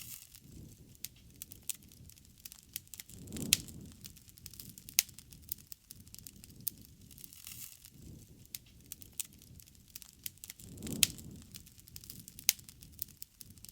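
Wood fire burning with irregular sharp crackles and pops over a low soft roar of the flames; two louder pops with a brief swell of the flame sound come about three and a half seconds in and near eleven seconds.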